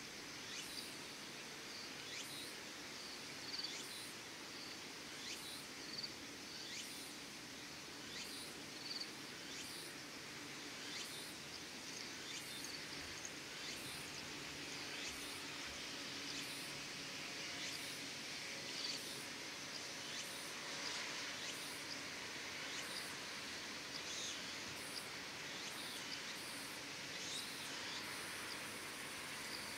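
Insects chirping in a steady repeated pattern, a short high chirp roughly once a second, over a soft outdoor hiss.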